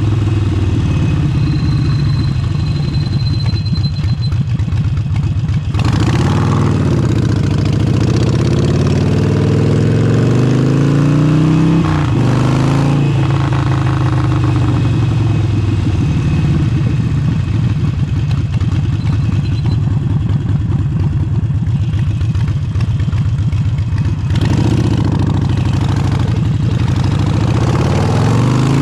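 Harley-Davidson Forty-Eight's 1200 cc air-cooled V-twin running through an aftermarket exhaust while riding, its revs climbing and falling several times. There is a sharp break with a drop in pitch about twelve seconds in, and the revs climb again near the end.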